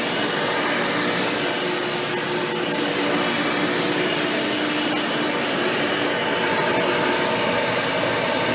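Hoover Power Drive Supreme upright vacuum cleaner running steadily while vacuuming: a rushing airflow with a steady motor-and-fan whine from its upgraded 20-blade impeller fan.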